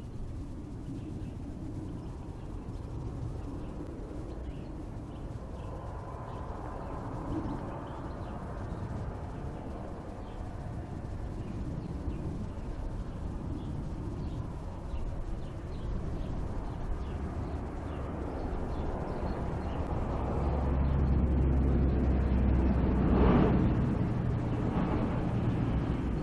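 Low rumble of a motor vehicle's engine, getting louder over the last third as it comes closer, over outdoor ambience.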